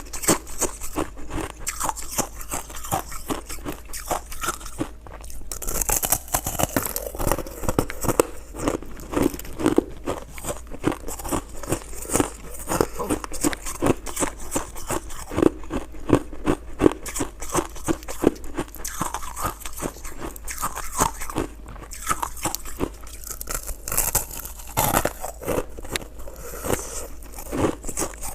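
Crunching and chewing of purple crystal shaved ice, a dense run of crisp, irregular bites.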